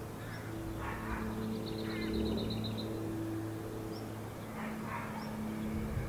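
Small songbirds calling: a rapid run of about ten high ticks a little over a second in, a few short high chirps and some rougher, lower calls. A steady low hum runs underneath.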